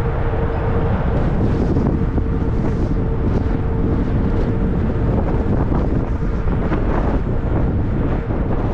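Wind buffeting the microphone in a steady low rumble while riding an e-bike along a trail.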